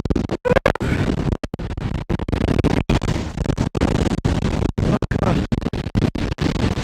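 Gale-force wind buffeting the camera microphone: a loud rumbling noise that keeps cutting out for split seconds.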